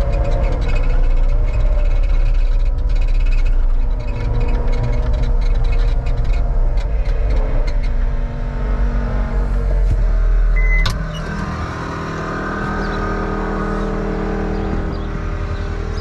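Heavy equipment engine running hard. About eleven seconds in there is a sharp click, and the sound drops to a lower, steadier running hum.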